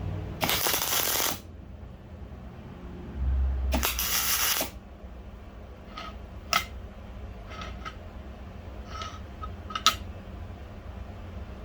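Two short bursts of hissing spray, each lasting about a second, followed by a few sharp, light metallic clicks and taps.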